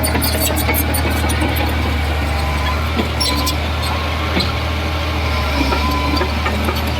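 Heavy diesel engine of a bulldozer running steadily under a constant low hum, with scattered metallic clicks and clanks over it.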